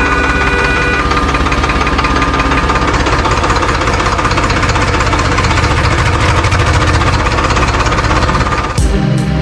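Small tractor engine running with a rapid, even chug. Music comes in near the end.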